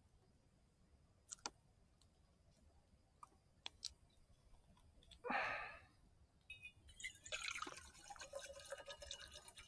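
Faint scattered sharp clicks, a brief rustling burst about five seconds in, then from about seven seconds water pouring and dripping with small splashes.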